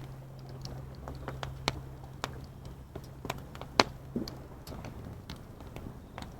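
Wood fire crackling, with irregular sharp pops of burning wood scattered through and the loudest pop about four seconds in. A steady low hum runs underneath and drops out near the end.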